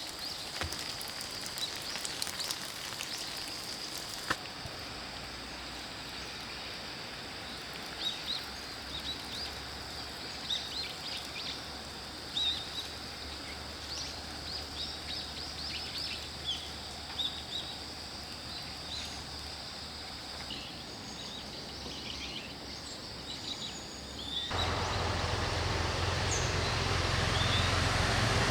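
Small birds chirping in short, scattered calls over a steady outdoor hiss. About 24 seconds in, this gives way abruptly to a louder steady noise with a low hum.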